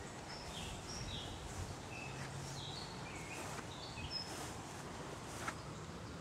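A songbird chirping: a loose series of short, high notes, some sliding down in pitch, over a steady outdoor background hiss. There is a light tap near the end.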